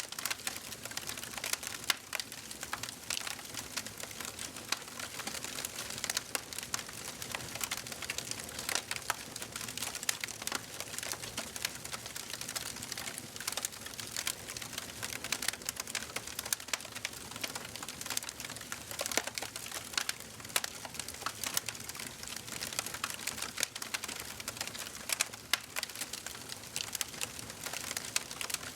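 Fireplace fire crackling: a steady hiss with many small, sharp pops and snaps at irregular intervals.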